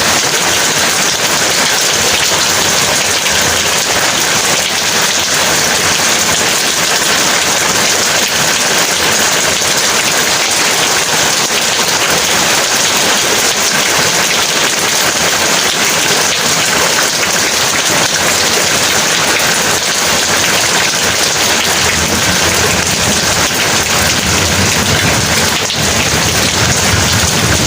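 Heavy rain falling steadily, a dense even hiss. A low rumble of thunder comes in near the end.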